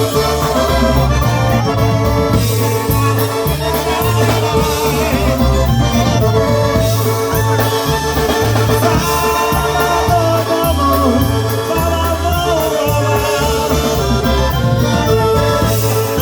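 Live polka band playing an instrumental passage: accordion melody over a stepping bass line and a steady drum beat.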